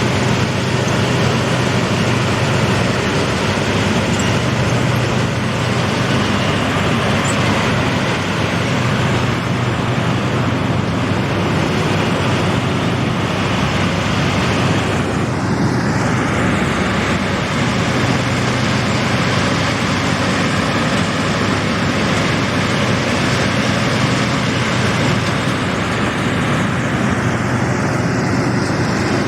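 Combine harvester running steadily: a loud, even machine noise with a low, steady hum underneath.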